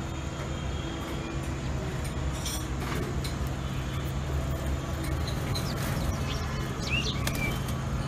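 A few brief chirps from small birds, the clearest one about seven seconds in, over a steady low rumble.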